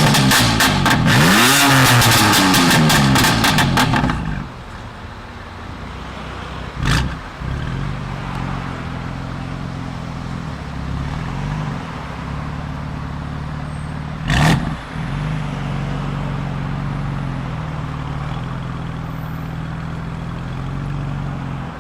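BMW M4 F83's twin-turbo inline-six revved hard, its pitch rising and falling repeatedly, then dropping to a steady idle about four seconds in. Two short sharp bursts cut through the idle later on.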